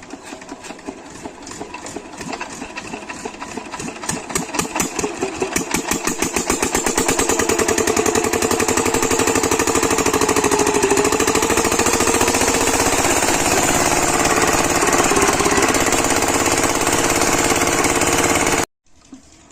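7 HP diesel pumping engine starting up: slow firing beats speed up over the first several seconds, then it runs steadily and loud until the sound cuts off abruptly near the end.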